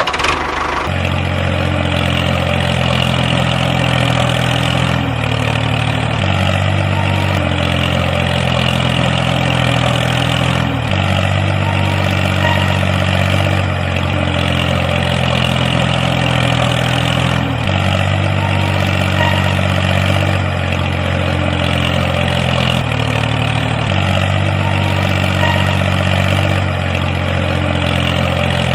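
Small tractor engine running at idle, a steady low drone whose pitch steps abruptly up and down every few seconds rather than gliding.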